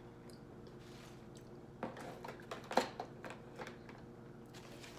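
A person chewing food with the mouth closed, with a few short wet mouth smacks clustered between about two and three and a half seconds in, over a low steady hum.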